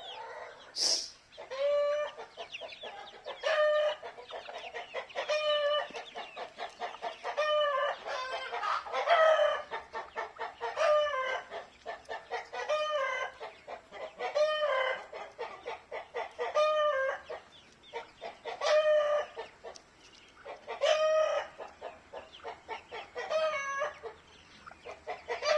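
Chickens calling. A short call that rises and falls in pitch repeats about every two seconds, with fast, short notes in between.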